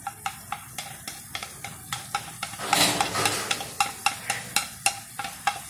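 Chicken wings sizzling in a fish-sauce glaze in a wok while chopped green onions are scraped in from a plate. A utensil taps and scrapes steadily, about four sharp ticks a second, and the sizzle swells briefly about three seconds in.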